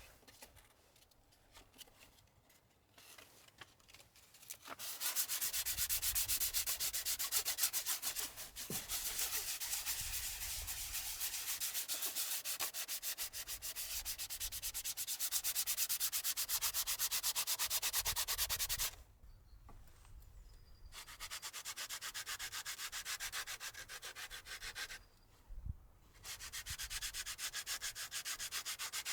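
Sanding: a dense scraping hiss that starts about five seconds in and comes in three spells, separated by two short pauses.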